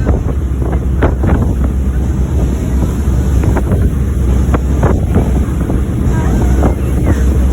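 Wind buffeting the microphone over the steady low drone of a passenger boat's engines under way, with water rushing along the hull and short louder swishes now and then.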